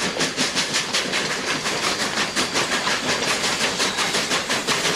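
Steam locomotive chuffing at a steady pace, a hissing puff about five times a second, with a clickety-clack rhythm: a train sound effect.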